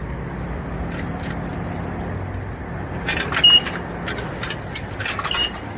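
Metal coins clinking and clicking in clusters, about three seconds in and again near the end, over a steady low hum.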